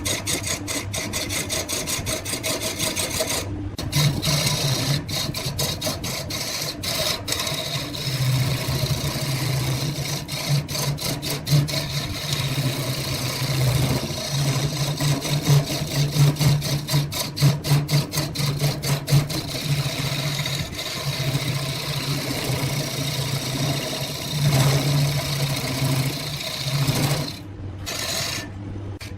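Wood lathe running while a turning tool scrapes against the spinning wood, a continuous rasping with a steady low motor hum underneath that fades in about four seconds in and drops out near the end.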